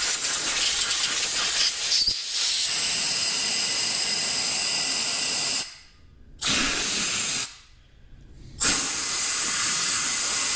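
Compressed air hissing from an airline blow gun as it blasts water and contaminants out of a washed brake caliper, with a faint steady whistle. It comes as one long blast, a short one, then another long one.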